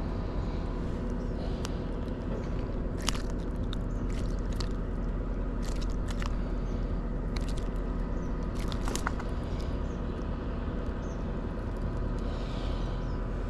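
Steady low mechanical hum, with scattered sharp clicks and scrapes between about three and nine seconds in.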